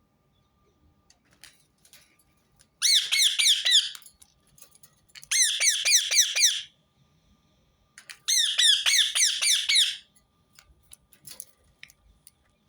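Rose-ringed parakeet calling: three bursts of rapid, shrill repeated chirps, each lasting a second or more, with short pauses between.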